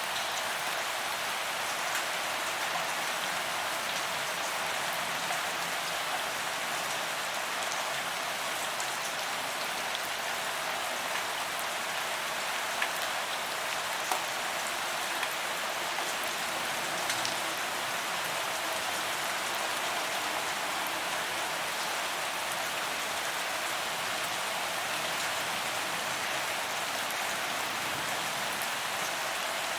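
Steady rain falling on a paved promenade, an even hiss with scattered individual drop ticks.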